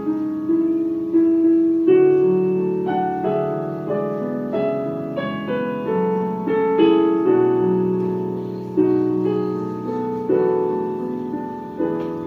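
Solo piano playing a slow, lyrical elegy: chords struck about once a second, each ringing and fading before the next.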